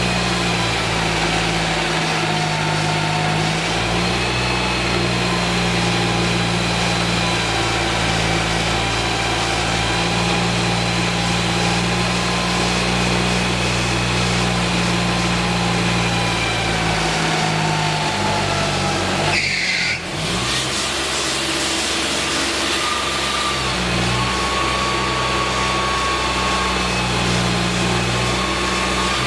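An engine running steadily, with a set of sustained machine tones. About two-thirds of the way through, the tones drop away and a different steady pitch takes over.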